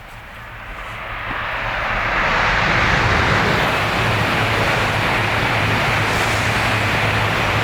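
Tohoku Shinkansen train passing through a station at speed without stopping: a rushing noise that builds over the first two seconds, then holds loud and steady over a low hum.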